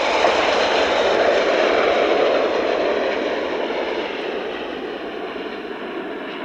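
Jet aircraft engine noise, a steady rush that slowly fades as the aircraft moves away.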